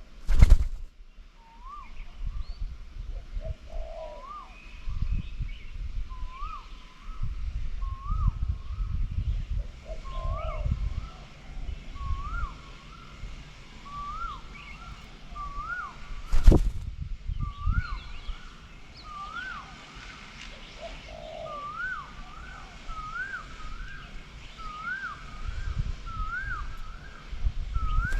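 Asian koel calling over and over, each call a rising whistled note, the calls coming faster and climbing in pitch as the series goes on. Low rumbling noise runs underneath, and there is a single sharp knock about halfway through.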